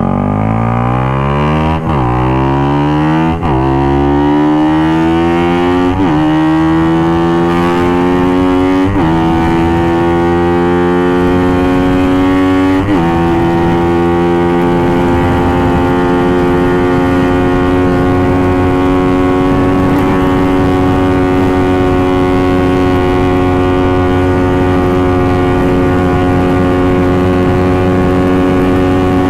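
Suzuki GSX-R150's single-cylinder engine, fitted with an aftermarket exhaust, accelerating hard up through the gears: the engine pitch climbs and drops sharply at each of five upshifts in the first 13 seconds, then holds steady at cruising speed.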